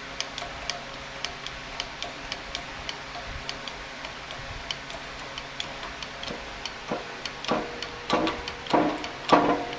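Steady light ticking, about three ticks a second. About seven seconds in, a hand-pumped hydraulic shop press starts being worked: rhythmic creaking pump strokes, about one and a half a second, pressing a bearing onto a rear axle shaft.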